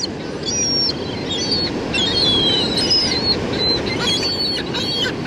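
Gulls calling in a flock, many short high calls overlapping, some sliding up or down in pitch, over a steady background rush.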